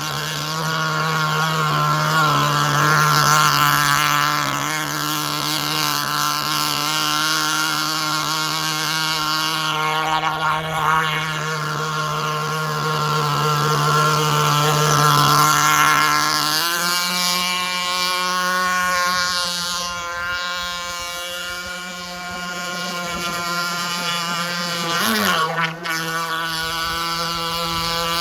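Small nitro glow engine of an RC jet-ski running at high speed. Its pitch steps up about two-thirds of the way in, then briefly drops and recovers near the end.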